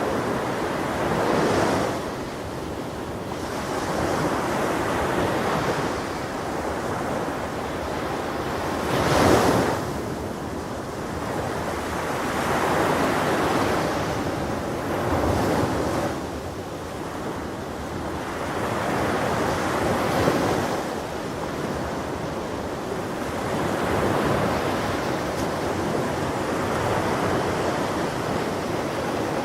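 Ocean waves breaking on a shore, the surf swelling and easing every few seconds, loudest about nine seconds in. Some wind noise is on the microphone.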